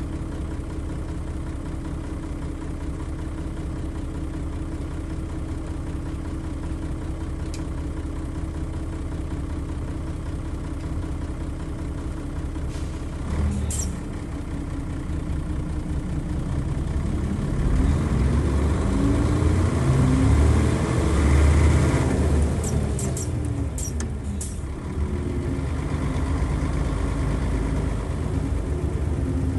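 Nissan Diesel FE92TA turbodiesel bus engine idling steadily. About 13 seconds in comes a sharp hiss of air from the air brakes. The engine then revs up and down and grows louder, with a few short air hisses, before settling to a steady run near the end.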